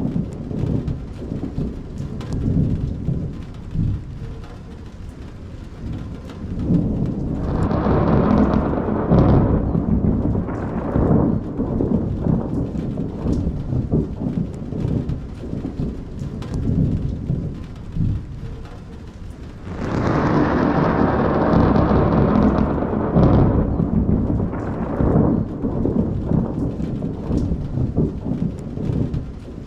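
Thunder rumbling continuously over rain, with two long, loud rolls of thunder: one about a quarter of the way in and another about two-thirds of the way through.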